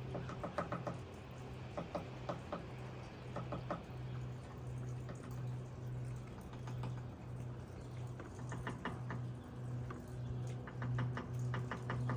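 Black-capped chickadee pecking at wood, quick runs of sharp taps in several bursts, as it tries to peck out a nest hole in the eaves.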